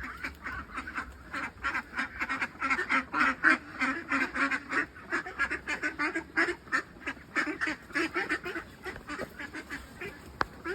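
A flock of farm waterfowl calling, a dense run of rapid overlapping quacks and honks.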